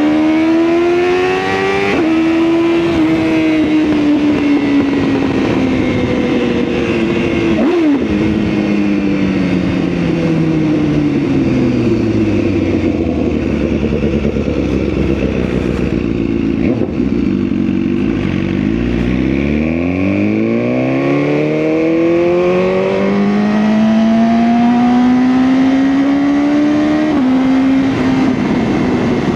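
BMW S1000R's inline-four engine under way: it revs up and shifts gear about two seconds in, then winds down slowly as the bike slows, its pitch sinking low for several seconds. It then pulls up again steadily, with another gear change near the end.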